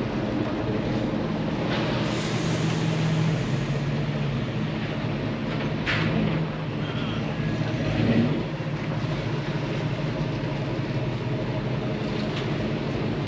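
A vehicle engine running with a steady low rumble, with a sharp click about six seconds in and a brief swell in loudness about two seconds later.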